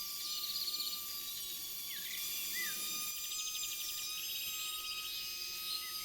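Small birds chirping and trilling: short falling chirps and quick rattling trills at high pitch, over a steady high-pitched tone.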